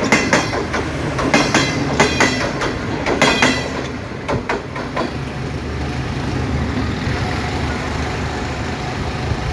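Pakistan Railways Green Line passenger train running on the track, its wheels clattering over rail joints in a run of sharp clicks. About five seconds in the clicks stop and a steady low rumble carries on.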